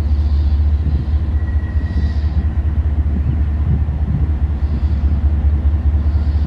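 CSX freight train rolling past, a loud steady low rumble.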